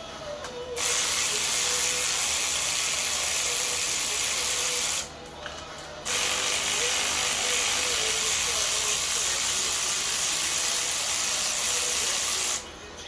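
Pneumatic air tool running with a loud hiss of air, in two long runs of about four and six seconds that each cut off abruptly.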